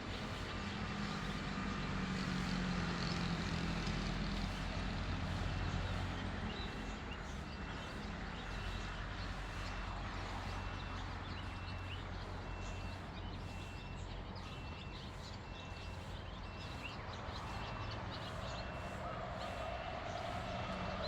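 Faint high twittering of swiftlets over a steady low rumble, with a faint short high tone repeating about once a second.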